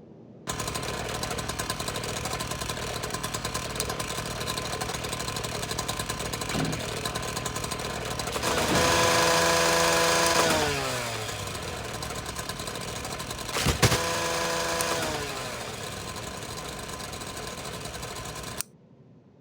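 A small motor-driven machine switched on, running with a steady buzzing rattle, then switched off shortly before the end. In the middle it runs louder for a couple of seconds and its pitch then sags. There is one sharp knock a little later, followed by another short drop in pitch.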